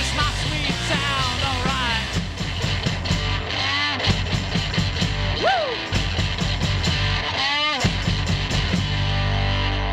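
Live rock band playing: distorted electric guitar with bent notes over bass, drums and tambourine. About nine seconds in the drums stop and a held guitar chord rings on.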